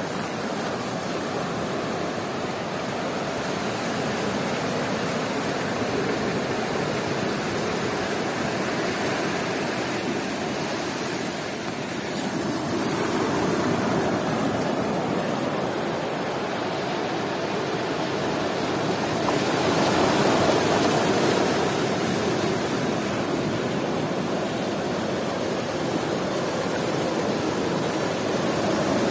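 Sea surf breaking on a beach: a steady rush of waves that swells louder about twelve seconds in and again around twenty seconds as bigger waves come in.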